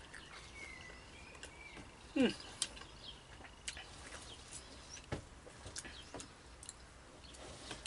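Quiet chewing of pizza with small mouth clicks, and a short falling sound about two seconds in. Faint birds chirp in the background.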